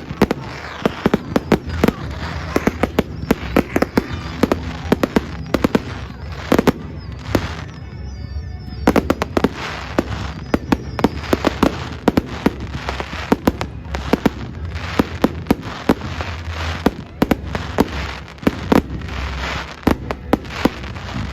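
Fireworks going off in quick succession: a dense, continuous run of bangs and crackles, with a brief wavering whistle about eight seconds in.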